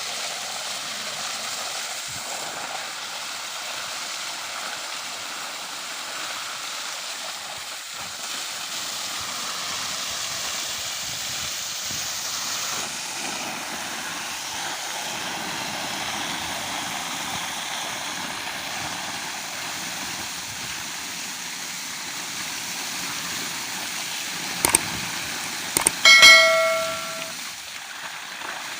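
Steady hiss of running water. Near the end come a few sharp clicks, then a short, loud ringing tone that fades within about a second.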